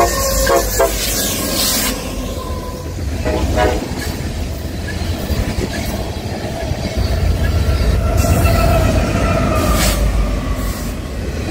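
Freight train passing close by: a diesel locomotive's horn sounds in short blasts in the first second and again about three seconds in, over a steady heavy rumble of the train rolling past. Tank cars and a second diesel locomotive go by with loud wheel and engine noise.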